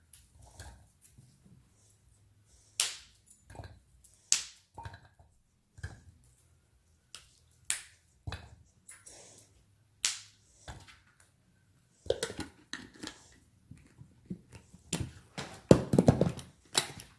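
Scattered sharp clicks and taps, turning into a busier run of clatter over the last five seconds: a small food processor's plastic bowl and parts being handled and fitted.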